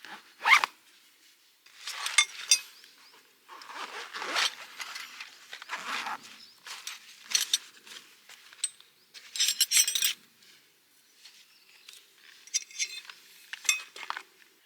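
Short, irregular rasping and rustling sounds: about a dozen separate bursts, each a second or less long.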